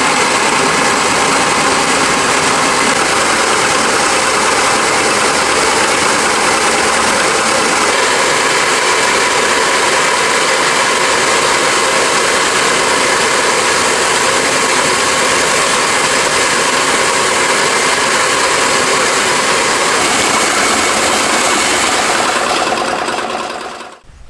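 Industrial rice milling machine running steadily at full noise, then shut off near the end, its sound dying away within about a second.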